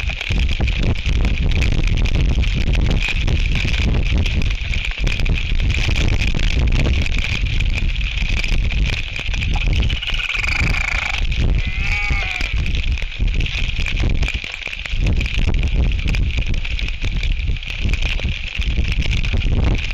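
Bleating, braying calls of royal albatrosses, heard about ten and twelve seconds in, over a constant low wind rumble on the microphone and a steady rain hiss.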